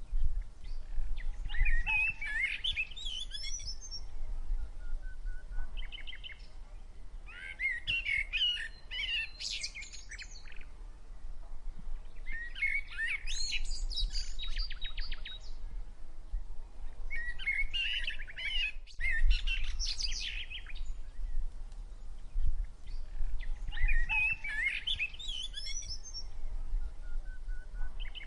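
A songbird singing: short, intricate phrases of quick chirps and trills, each about two to three seconds long, repeated about every five seconds. A low rumble runs underneath.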